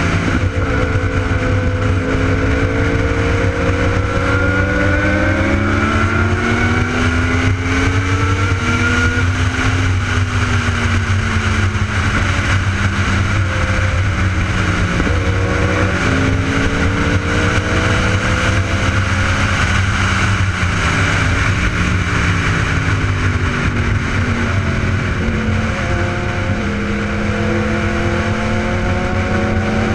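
Sport motorcycle engine running under way, its pitch climbing and dropping several times as the revs rise and fall, over a steady rushing noise.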